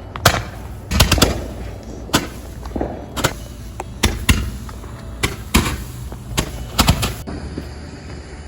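Fireworks going off: a run of about a dozen sharp bangs and pops at uneven intervals, some in quick succession.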